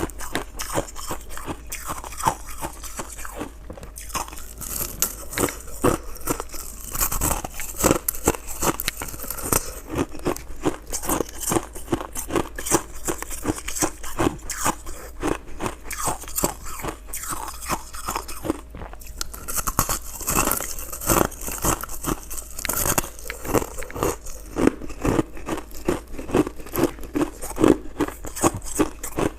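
Close-up chewing and crunching of shaved ice, a dense run of crisp, irregular crunches with a couple of brief lulls.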